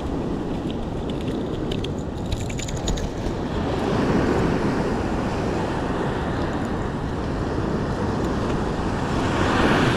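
Wind buffeting the microphone over the steady wash of surf, with a short run of light clicks about two seconds in.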